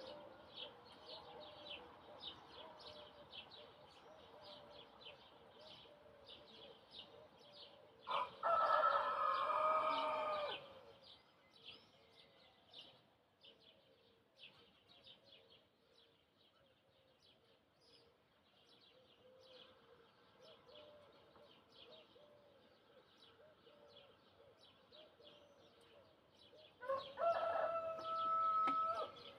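A rooster crows twice, each crow a loud pitched call lasting about two and a half seconds, the second near the end. Small birds chirp constantly in short, quick high notes throughout.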